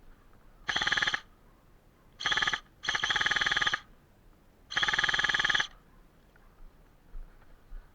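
Airsoft electric gun firing on full auto in four short bursts of very fast, buzzing shots, the last two the longest.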